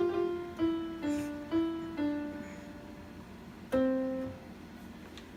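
Piano playing a slow, falling line of single notes, about two a second, then a pause and one last note near the end left to ring out.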